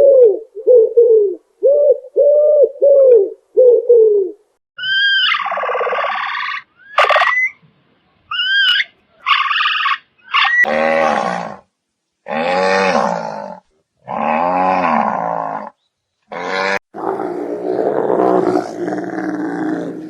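A series of animal calls. First comes a quick run of short repeated notes, then higher gliding squeals, then several long, deep calls of about a second each, separated by abrupt gaps.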